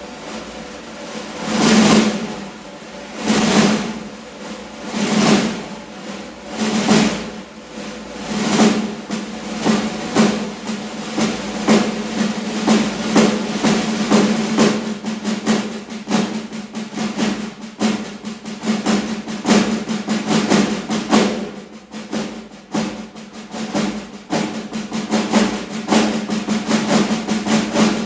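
Snare drums playing rolls that swell and fade about every second and a half, imitating a train chugging. After about ten seconds they run together into a denser, steadier roll.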